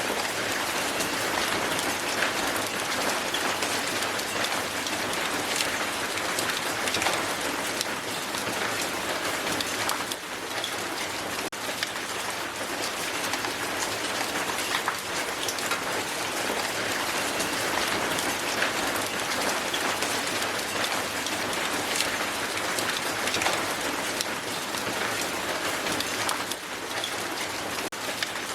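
Strong hail falling onto the ground: a dense, steady patter of countless small ice impacts.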